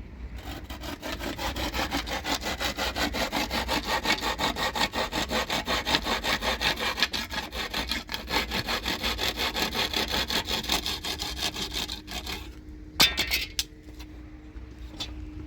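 Hand saw cutting through wood in fast, even strokes, about four a second, for some twelve seconds. It stops, and a sharp brief sound follows about a second later.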